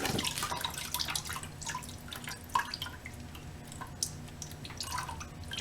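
Antifreeze coolant dripping from an overflowing motorcycle radiator: irregular small drops ticking and splashing onto the floor, a sign that the cooling system is full.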